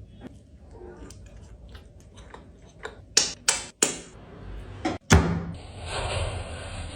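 Kitchen clatter: light clicks and taps, then a few sharp, loud knocks of cookware or utensils. A steady hiss begins about five and a half seconds in.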